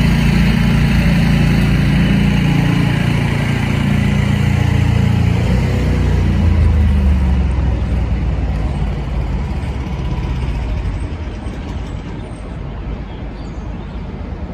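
A heavy road vehicle's engine running close by, a loud low drone that drops in pitch about halfway through and then fades away as the vehicle moves off.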